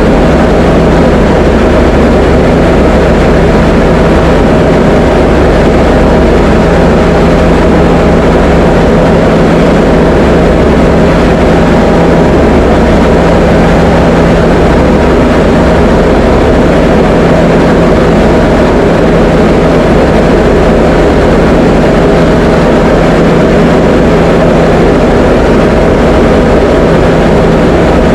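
Diamond DA20 light aircraft's piston engine and propeller running steadily in flight: a loud, even drone with no change in pitch.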